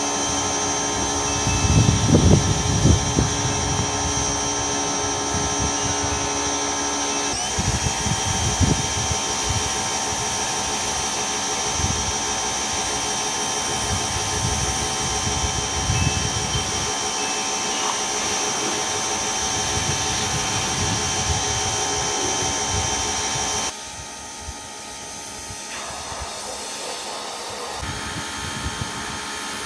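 Car wash machinery running with a steady mechanical whine of motors and blowers, shifting about seven seconds in and dropping quieter near the end, with irregular low thumps underneath.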